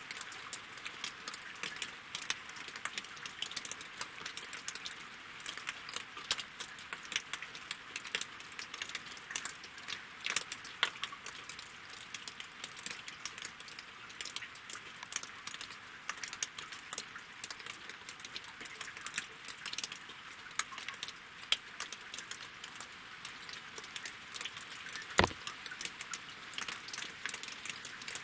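Winter rain falling on lake water and wooden logs: a steady hiss of rain with many individual drops ticking, and one louder drop near the end.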